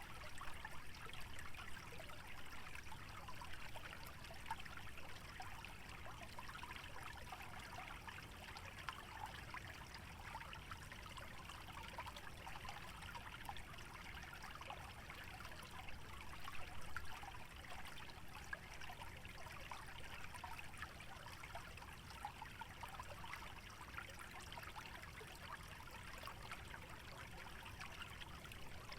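Small stream trickling and babbling steadily over shallow obstructions, a continuous burbling of water.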